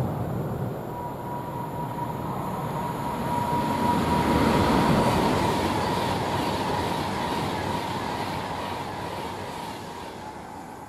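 Class 37 diesel locomotive dragging a class 321 electric unit, running along the line out of sight. The rumble swells about midway and then fades away, with a steady high whine held through most of it.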